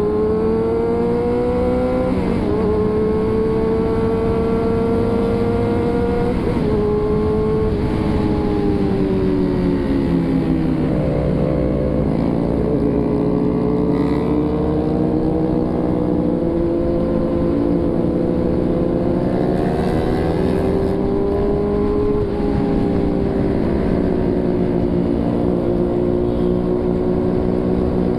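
Motorcycle engine running under way, its pitch climbing and falling with the throttle and gear changes. Around the middle the revs drop sharply and then build again, over a steady low rumble of wind and road.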